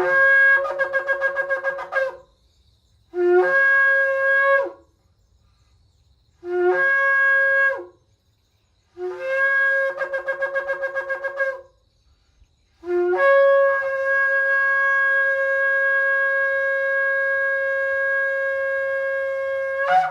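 Shofar (ram's horn) blown in five blasts, each opening on a low note that jumps up to the main tone. The first and fourth blasts flutter with rapid pulses, the second and third are short and plain, and the last is held steady for about seven seconds before cutting off.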